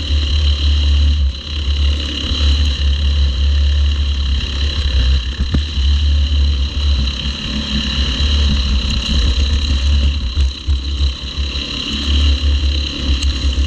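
Small race cars' engines running at speed during a race, a steady high whine over a heavy low rumble.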